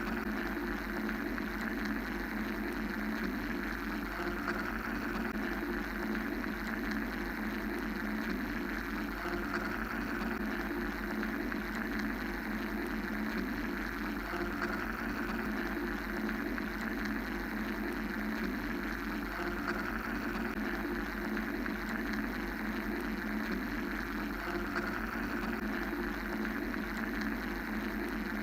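Steady mechanical white-noise drone, an unchanging hum with a low rumble and a hiss band above it, without beats or breaks.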